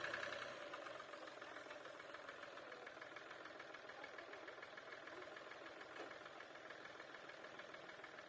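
Tractor engine running steadily, dropping in level about half a second in and then holding at a low, steady level.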